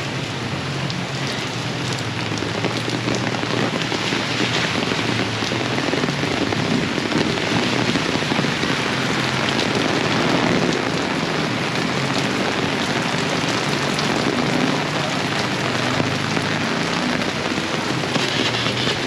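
Heavy rain pouring down in a dense, steady hiss, with fine patter of drops hitting the surfaces.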